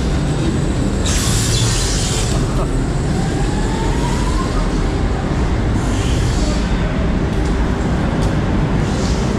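Voltron Nevera Mack Stryker coaster train with a steady low rumble, broken by two short bursts of hiss about a second in and again near the middle.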